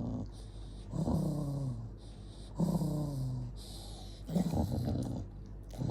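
Angry dog growling: three drawn-out growls, about a second in, near the middle and toward the end, each sliding down in pitch.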